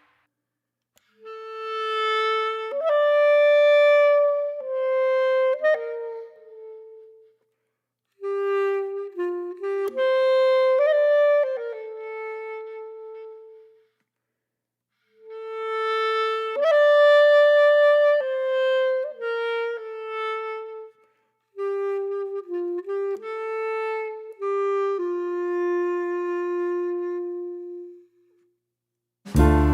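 A solo wind instrument, reedy like a clarinet or saxophone, playing a slow melody in four phrases with short silences between them, the notes held and sliding from one to the next.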